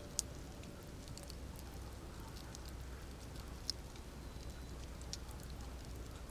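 Campfire crackling: many small, sharp pops scattered over a steady low rumble, with a few louder snaps, the first just after the start and others about three and a half and five seconds in.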